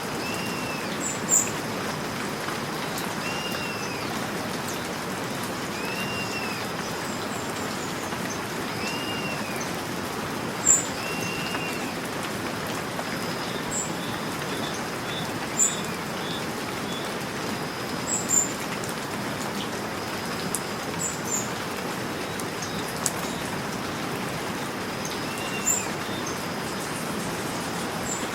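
Steady rain falling, with a bird giving a short arched call every few seconds and brief, sharp high chirps now and then.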